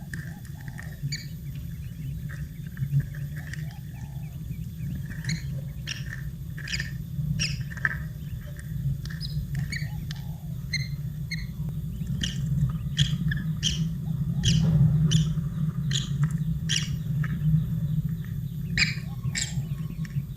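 Newly hatched chicks chirping, many short high cheeps coming faster in the second half, over a steady low hum.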